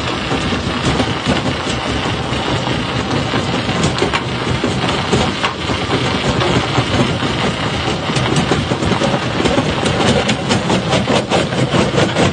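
Rock crusher running under load, with a steady heavy mechanical din and many rapid cracks and knocks of stone being broken, coming thicker in the second half.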